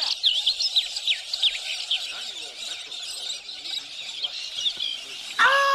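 A flock of small birds chirping and twittering busily, with many quick overlapping calls. Near the end a loud steady pitched tone starts over them.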